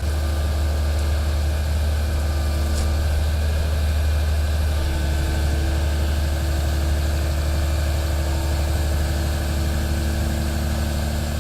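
Heavy machinery engine running steadily with a deep, even hum.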